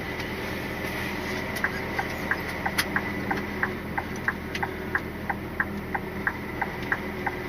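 Turn-signal indicator ticking evenly, about three clicks a second, inside the cab of a Scania R450 lorry, over the steady running of its diesel engine.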